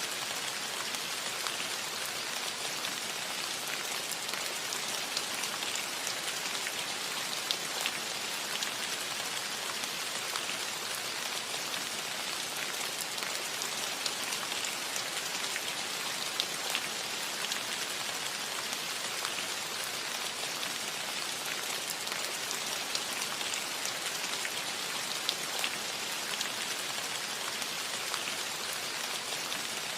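Steady rain falling on a metal roof, an even patter with many small sharp drop ticks over it.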